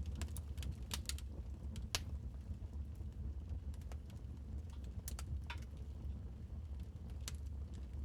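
Wood fire crackling: irregular sharp pops and snaps over a steady low rumble of burning, with the loudest pop about two seconds in.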